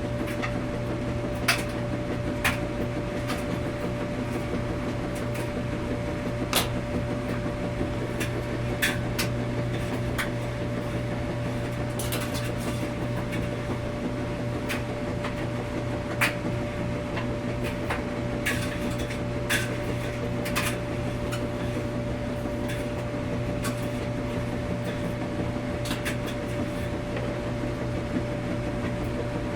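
Washing machine running with a steady hum and a thin steady tone above it, with irregular light clicks and knocks scattered through it.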